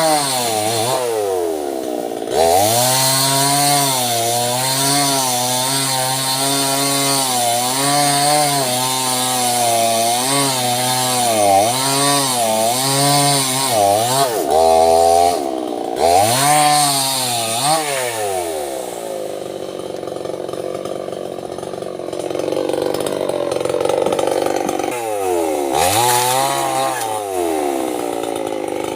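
Small chainsaw running and cutting sengon wood, its engine pitch rising and falling about once a second under the cut. It drops back toward idle about two seconds in and again for several seconds past the middle, with quick revs in between and near the end.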